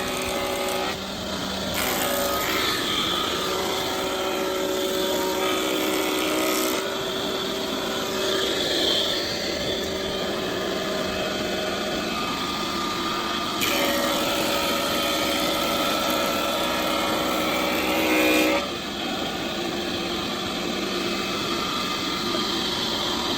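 Woodworking power tools running steadily on wood, heard in several short stretches that change abruptly from one to the next.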